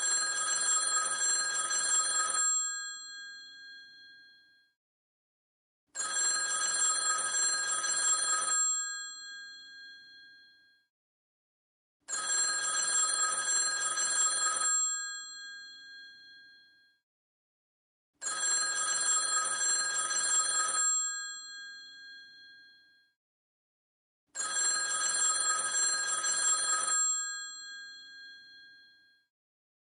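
An old telephone's electromechanical bell ringing in the classic pattern of five rings, each about two and a half seconds long and coming every six seconds. The bell tones die away between rings.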